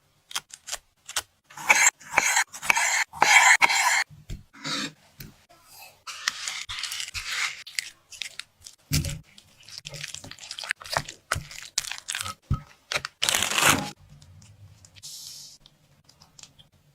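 Crunching and crinkling noises in irregular bursts, with scattered sharp clicks and taps; the loudest burst comes about thirteen seconds in.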